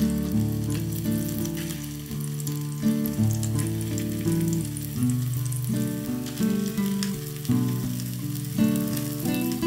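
Food frying in oil in a pan, a steady crackling sizzle, over background music.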